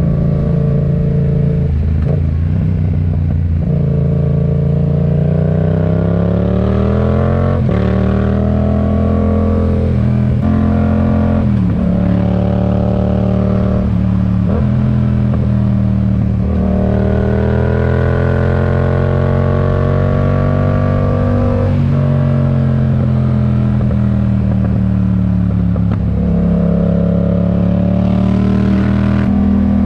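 Yamaha MT-07's parallel-twin engine through a RoadsItalia aftermarket exhaust, pulling hard through the gears: the pitch climbs over a few seconds, drops at each shift, then climbs again, with a couple of short dips off the throttle in between.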